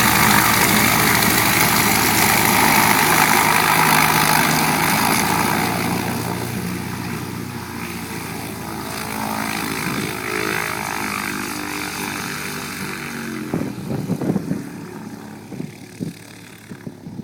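1947 Stinson 108-1 light plane's six-cylinder Franklin engine and propeller at full takeoff power, loud at first and then fading steadily over the second half. Wind buffets the microphone in gusts near the end.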